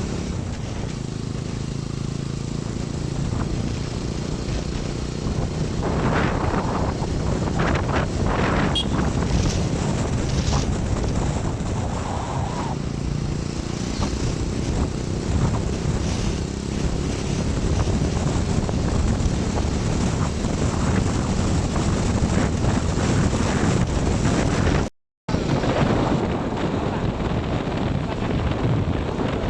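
Road noise from a vehicle travelling on a highway: a steady engine and tyre rumble with wind buffeting the microphone. Several louder passing sounds come between about six and eleven seconds in, and the sound cuts out briefly near the end.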